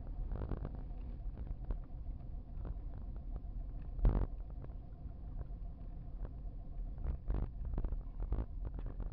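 Low, steady rumble of a vehicle heard from inside the cabin, with small scattered clicks, a short thump about four seconds in and a softer one a little past seven seconds.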